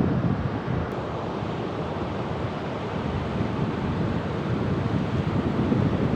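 Ocean surf: a steady wash of waves with low wind rumble on the microphone, swelling a little louder near the end.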